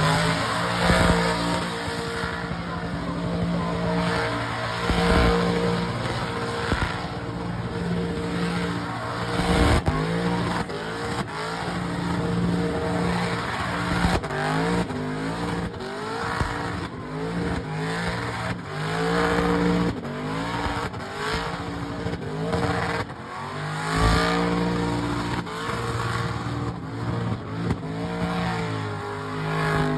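A burnout car's engine revving hard over and over, its pitch held high, then dropping and climbing again, with the hiss and squeal of rear tires spinning against the pavement.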